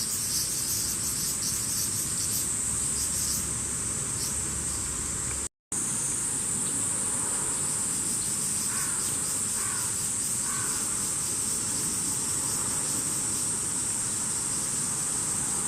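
A steady high-pitched chorus of insects, cut off by a brief silent gap about five seconds in. Three faint short calls come a little under a second apart, about nine to ten seconds in.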